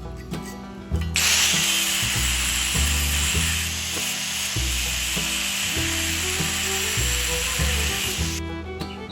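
Stick welding arc burning a 7018 rod, a steady hiss that starts suddenly about a second in and cuts off shortly before the end, over background music.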